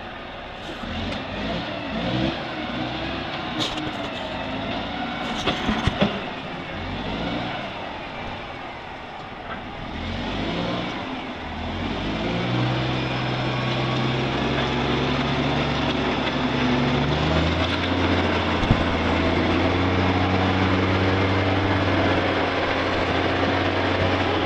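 Motor vehicle engine revving and changing speed, with a few sharp knocks about four to six seconds in. Past the middle a louder engine settles into a steady drone.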